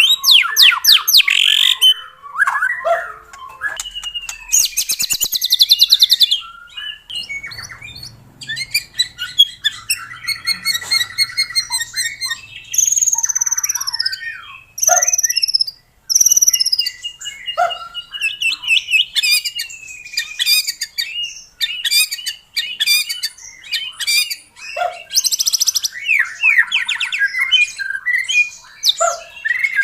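White-rumped shama (murai batu) singing a long, varied song: clear sweeping whistles mixed with rapid trills, fast buzzy runs of notes and sharp chattering calls, with barely a pause.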